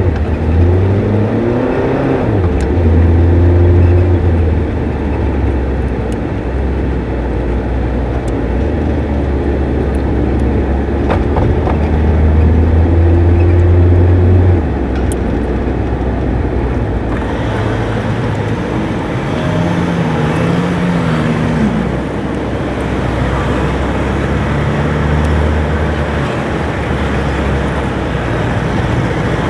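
Truck engine running through city traffic with a steady low drone, its pitch rising and falling a few times as it speeds up and slows, over continuous road noise.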